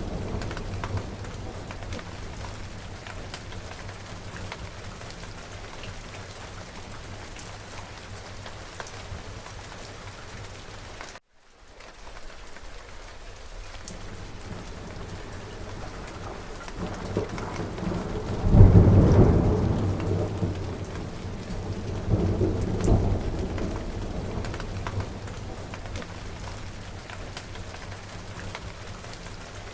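Steady heavy rain with thunder. A rumble fades at the start, and the sound cuts out for a moment near the middle. About two-thirds of the way through, a loud thunderclap rolls into a long rumble, with a second, weaker rumble a few seconds later.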